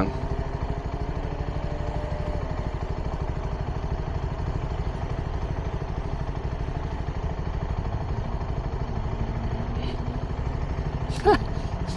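CFMoto 300NK's single-cylinder engine idling steadily through its stock exhaust.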